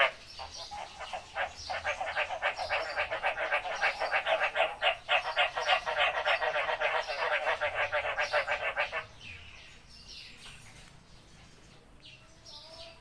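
Frog calling in a fast, continuous train of rasping pulses that stops abruptly about nine seconds in, leaving only faint calls after.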